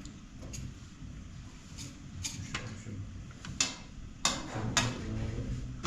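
Irregular sharp knocks and clicks, about seven of them, with the loudest in the second half, over a steady low rumble.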